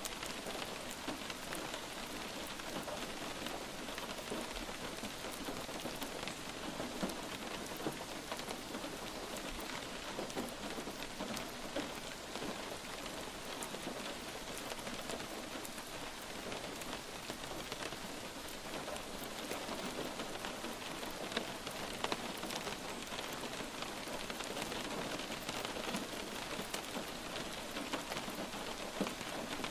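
Light rain falling steadily, a constant hiss with many fine individual drops pattering on a surface.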